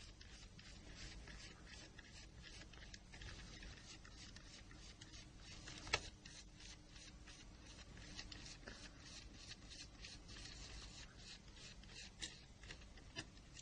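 Faint, rapid small clicks and scrapes of a Torx Plus size 6 screwdriver turning the small screws out of a Nokia N-Gage phone's chassis, with one sharper click about six seconds in.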